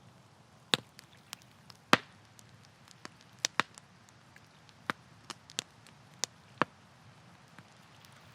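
Campfire wood crackling, with sharp pops at irregular intervals; the loudest come about one and two seconds in. Underneath runs a faint steady low hiss.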